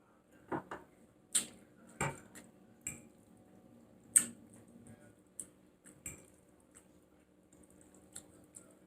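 Close-miked eating of a saucy stew: a string of short wet mouth clicks and smacks, or a utensil clinking, scattered irregularly, the sharpest about four seconds in.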